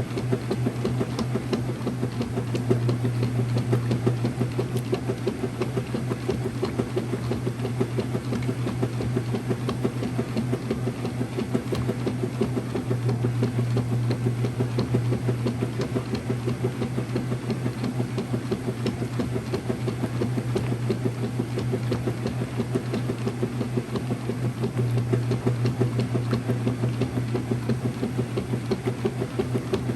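Early-2000s Whirlpool direct drive washer running a cycle: a steady motor hum under a fast, even mechanical churning that swells slightly every ten seconds or so.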